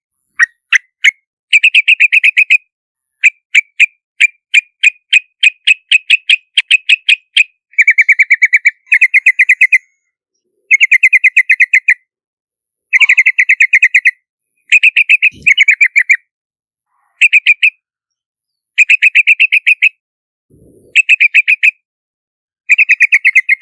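Yellow-vented bulbul calling. Single sharp notes come about four a second at first. Then come dense chattering phrases, each about a second long, with short pauses between them.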